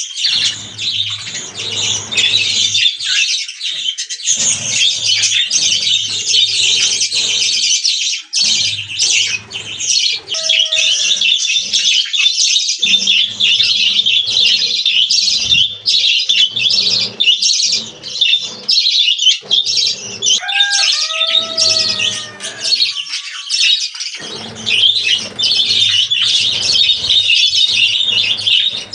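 A flock of budgerigars chattering and chirping without a break, a dense high warble. A few lower calls that bend in pitch stand out around the middle and about two-thirds of the way in.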